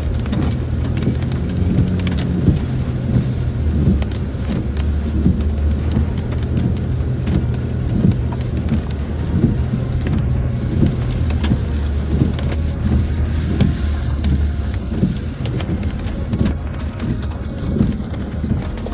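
Inside a Land Rover Discovery 4's cabin while driving: a steady low engine and road hum, with rain hitting the roof and windscreen in many small ticks.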